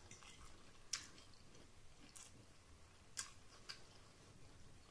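Faint chewing of a mouthful of spaghetti, with about four short soft mouth clicks, the loudest about a second in.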